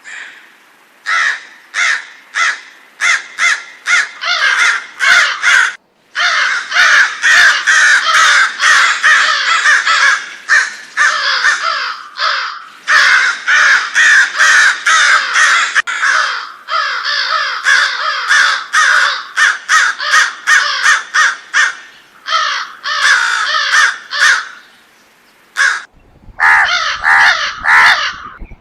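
A flock of crows cawing, many harsh calls overlapping in quick succession with a few short breaks; from about 26 s in, a low rumble comes in under the calls.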